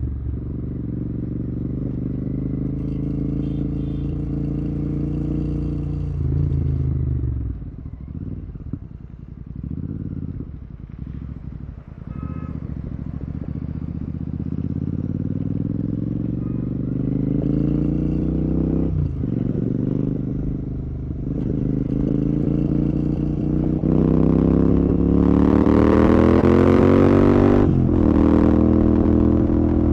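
Royal Enfield Continental GT 650's 648 cc parallel-twin through a Red Rooster aftermarket exhaust, on the move: the revs climb, then drop off the throttle about six seconds in and burble low and uneven for several seconds. It then pulls steadily up through the gears, with a short dip at each of two shifts, the second near the end, and wind noise building as speed rises.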